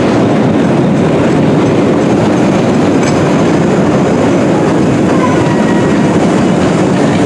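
London Underground 1962 Stock train running through a station, a steady rumble of wheels and traction on the rails. Faint brief wheel squeals come and go over the rumble.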